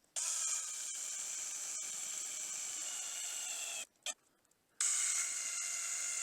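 Electric drill running in two long steady runs with a motor whine, stopping for about a second near the middle with a brief blip before it starts again.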